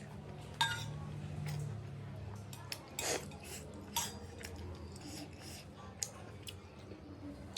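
Cutlery clinking against a bowl of noodle soup several times while eating, the first clink ringing briefly, with a longer eating noise about three seconds in.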